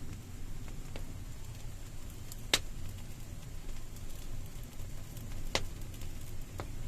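Wood fire burning with a low steady rumble and a few sharp pops and crackles, the loudest about two and a half seconds in and another near the five-and-a-half-second mark.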